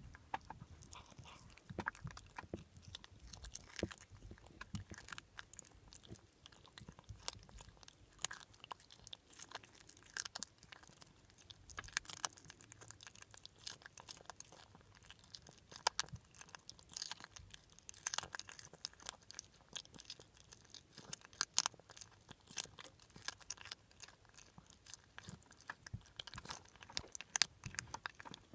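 A pet chewing crunchy food, with many irregular crisp crunches and bites.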